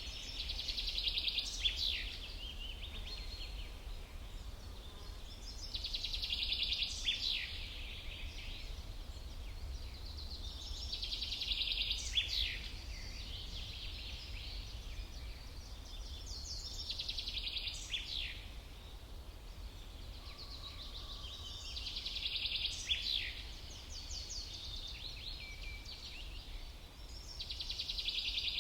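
A songbird repeats the same short song about every five seconds: a quick run of high, rapid chirps lasting about two seconds and ending in a fast downward sweep. A steady low rumble runs underneath.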